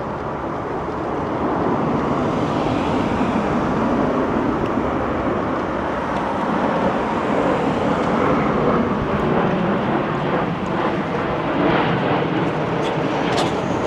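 A jet airliner flying low overhead, a steady broad rushing rumble that swells about a second in and holds.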